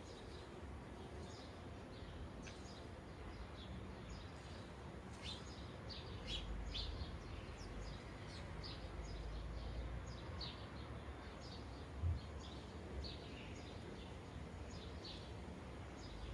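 Sparrows chirping in many short, quick cheeps, several birds calling over one another, over a faint low background rumble. A single low thump sounds about twelve seconds in.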